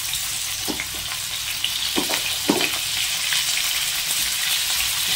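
Cauliflower florets, soaked in hot salted water and drained, sizzling steadily in hot oil in a kadai as more florets are dropped in. A few sharp pops cut through the hiss, the strongest about two and a half seconds in.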